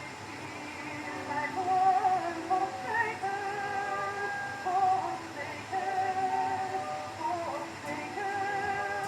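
Soprano voice singing slow, sustained notes with vibrato over orchestral accompaniment, from a 1916 acoustic-era Victor 78 rpm record with thin bass and light surface hiss.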